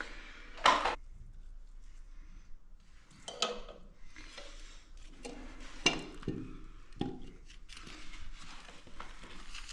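Hard objects being handled, with about four sharp clinks and knocks, the loudest near the start.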